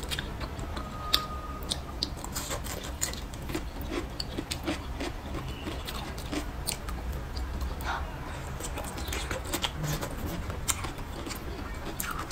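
Close-miked eating sounds: a person chewing, with many irregular sharp clicks and smacks. Chopsticks tap on a ceramic bowl. A low steady hum runs underneath.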